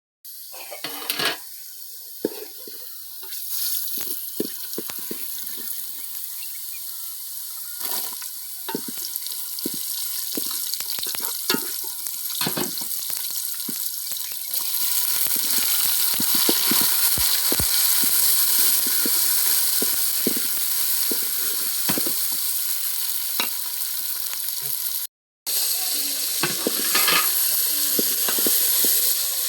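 Food sizzling in a pan with scattered clicks of stirring, a steady hiss that grows louder about halfway through and cuts out for a moment near the end.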